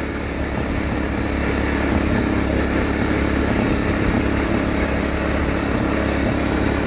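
Case yard tractor's 10 hp Kohler engine running steadily as the tractor drives along in fourth gear.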